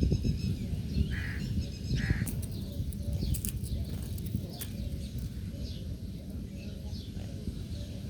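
Several birds calling: two short harsh calls about one and two seconds in, with many brief high chirps throughout. A steady low rumble runs underneath and is the loudest sound.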